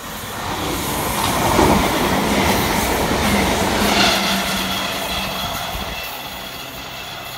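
Southern electric multiple-unit train running along the platform, the wheels clattering on the rails. It grows loudest between about one and a half and four seconds in, then fades, with a thin high squeal from about four seconds in.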